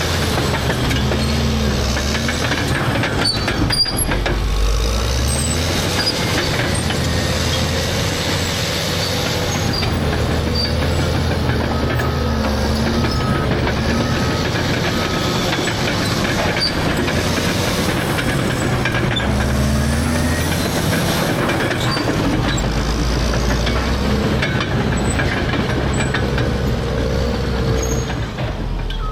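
Caterpillar D6R bulldozer's C9 diesel engine working, its pitch rising and falling as the machine is pushed and eased off. About halfway through comes a short series of beeps, like a reversing alarm.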